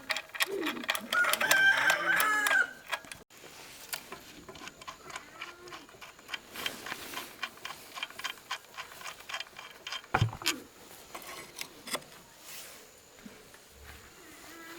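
A loud animal call with a bending pitch, starting about half a second in and lasting about two seconds, followed by scattered faint clicks and taps.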